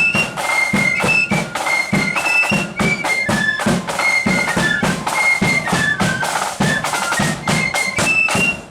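Marching band playing a tune: a high melody of held notes over steady, regular drum beats.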